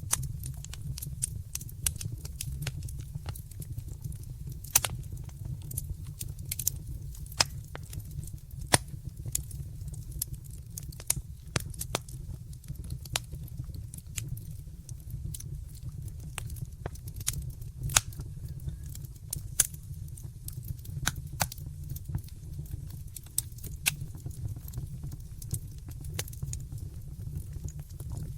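Wood fire crackling in a fireplace: irregular sharp crackles and occasional louder pops over a steady low rumble of flames.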